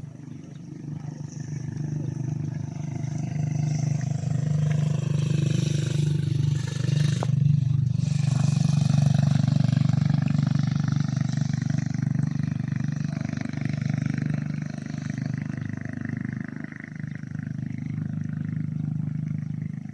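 A heavy vehicle's engine running hard under load, such as while towing. It swells over the first seconds and shifts in pitch about six seconds in.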